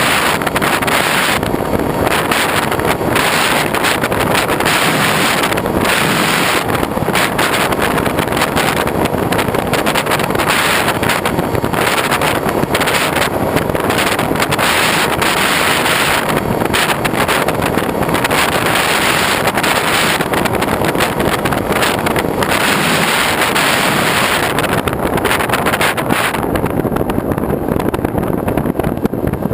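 Steady loud rush of wind on an action camera's microphone while moving, with a vehicle's running noise beneath it. The hiss in the highs falls away near the end.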